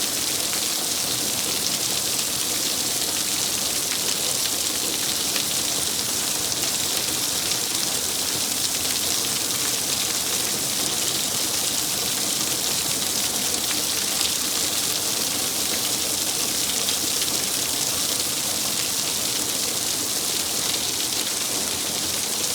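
Thunderstorm rain falling steadily: an even, unbroken hiss of drops that holds at the same level throughout.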